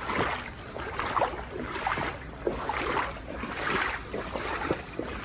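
Legs wading through knee-deep floodwater, the water swishing and sloshing with each stride in a steady rhythm.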